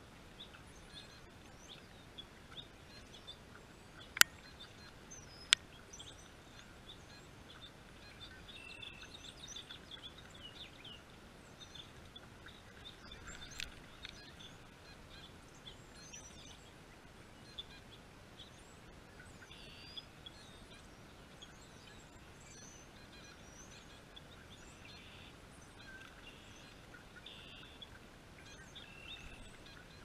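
Wild birds chirping and calling, many short high calls scattered throughout, with two sharp clicks about four and five and a half seconds in.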